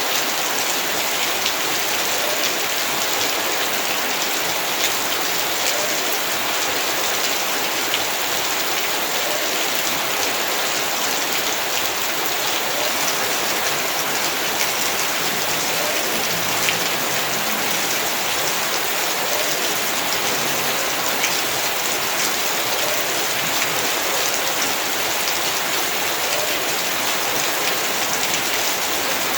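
Heavy rain falling steadily on a yard, a dense even hiss with scattered individual drop strikes.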